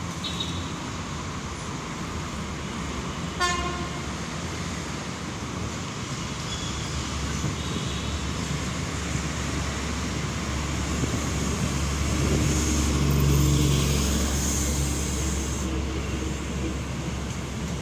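Philippine National Railways diesel multiple unit giving one short horn toot about three seconds in. Its low engine and wheel rumble then builds as it arrives and draws alongside, loudest about three-quarters of the way through before easing.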